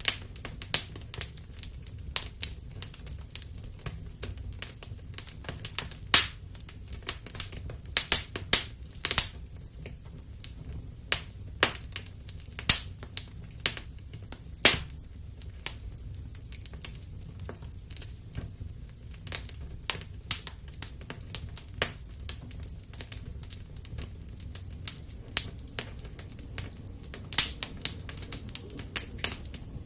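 Fire crackling in a fireplace: irregular sharp snaps and pops, a few much louder than the rest, over a low steady rumble.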